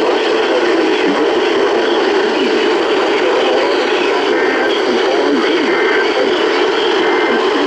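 Weather radio receiver with heavy static, a broadcast voice faintly heard under the hiss.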